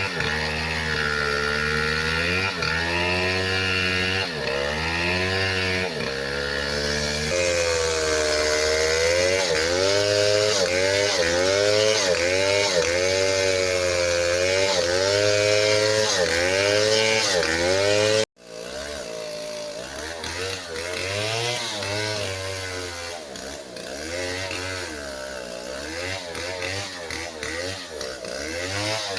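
Chainsaw cutting into a tree, its engine pitch dipping and climbing again and again as the chain bites into the wood and frees up. It breaks off abruptly about two-thirds of the way through and carries on more quietly.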